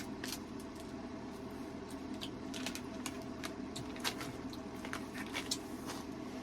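Snack packaging being handled: scattered small crinkles and clicks over a steady low hum.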